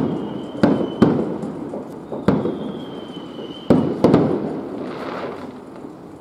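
Aerial fireworks shells bursting at a distance: about six sharp bangs that echo, in uneven pairs and singles. Two long high whistles, falling slightly, sound between the bangs.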